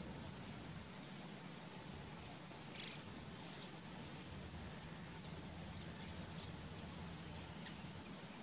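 Faint wild birds giving a few short, high calls, the sharpest near the end, over a steady low background hum.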